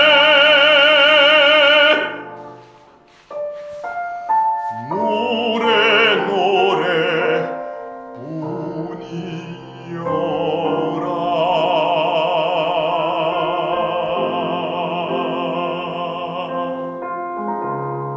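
A male voice sings a Korean song in a classical, operatic style with strong vibrato, accompanied by piano. A held note ends about two seconds in and a few piano notes follow. Then come more sung phrases and a long held note with vibrato, from about ten to seventeen seconds, and the piano carries on at the end.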